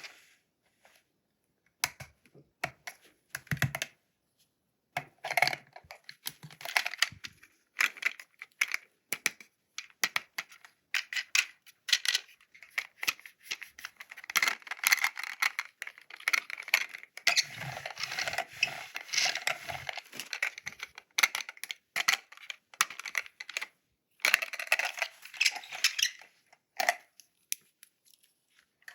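Toy packaging being opened and handled by hand: a long run of small clicks and taps, with denser stretches of rustling and tearing packaging.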